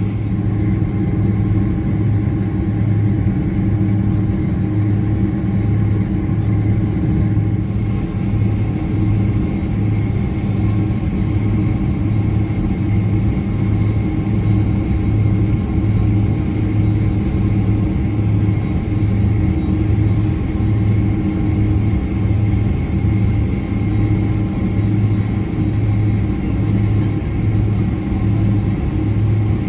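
Cabin noise inside a Boeing 767-300 airliner: a steady drone of jet engines and airflow, with a low hum that swells and fades about once a second.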